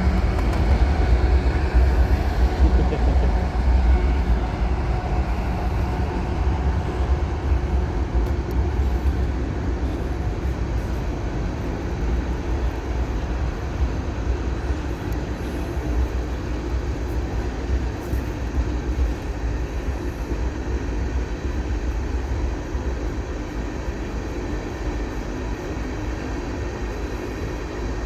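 Freight train rolling by with a steady heavy rumble, loudest in the first few seconds and slowly easing off.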